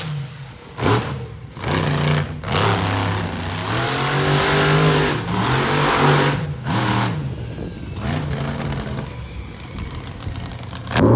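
Monster truck engine revving hard, its pitch climbing and falling again and again, with short breaks where the throttle is let off.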